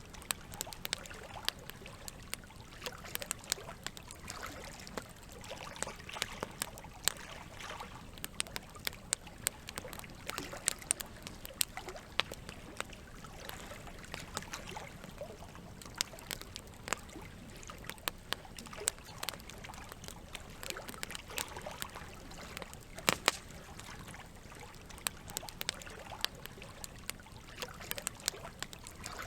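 Campfire crackling, with frequent irregular sharp pops and snaps, over a steady trickle of running water.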